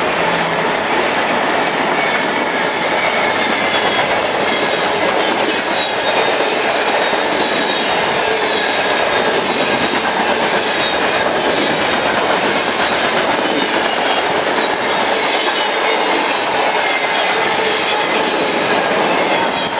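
A freight train's loaded cars rolling past close by: a steady, loud rumble and clatter of steel wheels on the rails. A faint high wheel squeal from the curve runs under it.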